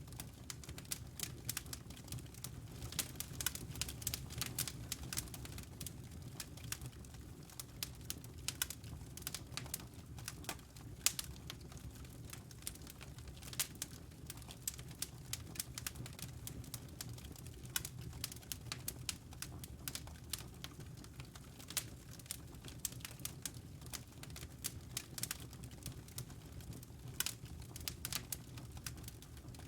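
Fire in a fireplace crackling: a steady run of irregular sharp snaps and pops over a low, soft rumble of flame.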